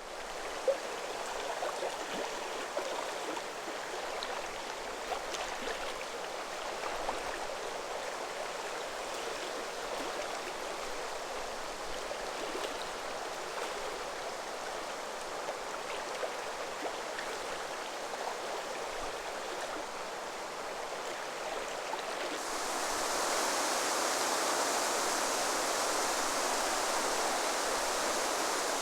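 Steady rushing and washing of water with faint small splashes. About 22 seconds in it turns into a brighter, louder hiss.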